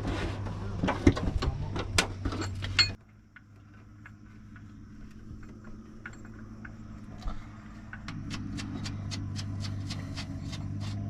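Metal tools and parts clinking and knocking against each other over a steady low hum. The sound drops off abruptly about three seconds in; lighter clicks follow, and the hum and clicking build again in the last few seconds.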